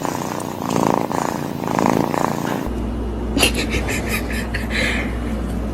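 A domestic cat purring, the buzz swelling and easing about once a second with its breaths. A few seconds in it gives way to a steady low hum with a quick run of sharp ticks.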